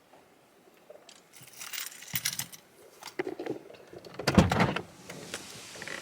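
Car keys jangling and rattling, then a car door shutting with a heavy thud about four seconds in, the loudest sound here. A steady outdoor hiss follows the door.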